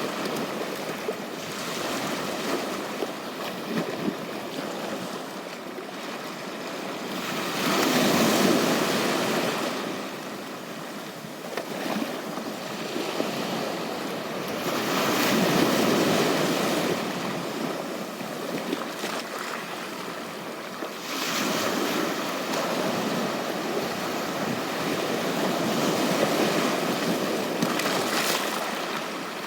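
Sea surf washing onto a beach, the noise of the waves swelling and fading several times.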